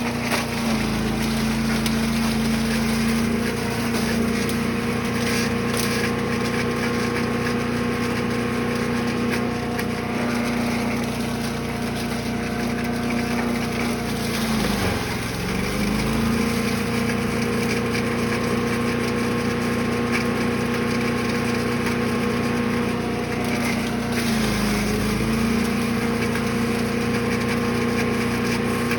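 Brush Master 3-in-1 chipper/shredder's gas engine running steadily while mulching yard waste. Its pitch dips and recovers twice, about halfway through and near the end, as the engine bogs briefly under a load of material.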